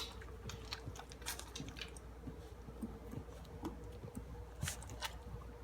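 Five-week-old chocolate Labrador puppies crunching dry puppy food: many small, irregular crunches and clicks.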